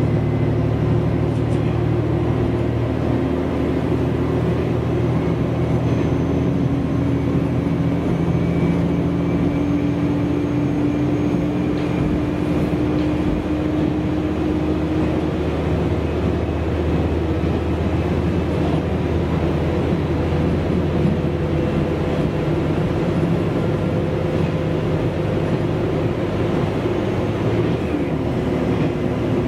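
Diesel railcar running at speed, heard from inside the passenger cabin: a steady engine drone whose pitch shifts slowly, over the rumble of wheels on the rails.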